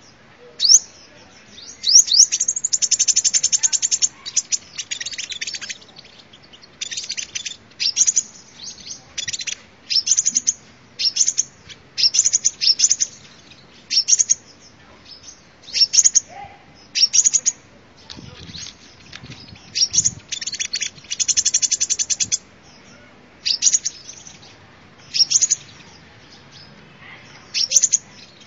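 Sunbird song: short bursts of rapid, high, trilled notes repeated every second or two, with longer trills about two seconds in and again around twenty seconds in.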